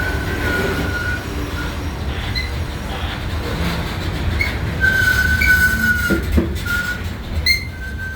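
Freight train cars rolling over a low rumble, with steel wheels squealing against the rail in high tones that come and go, the longest squeal about five seconds in, and a few knocks about six seconds in.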